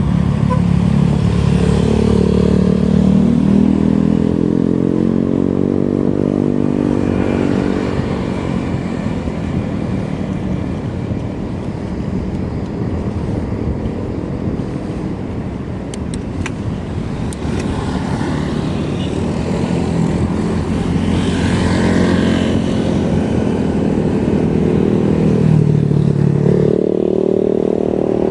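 Motor vehicle engine running on the road, its pitch rising and falling as speed changes, over steady road and wind rumble. A few sharp ticks come about halfway through.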